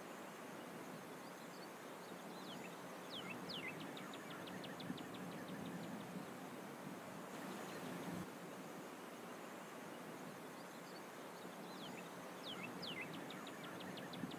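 Steady background hiss of outdoor ambience, with a small bird singing twice. Each song is a few high whistles that slide downward, then a quick run of ticking notes.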